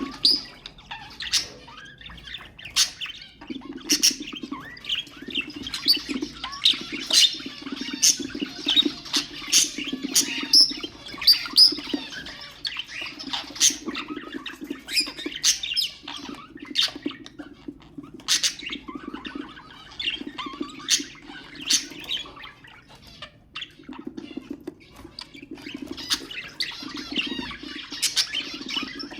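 Budgerigars chirping and chattering: a busy, unbroken stream of short, sharp calls, several a second.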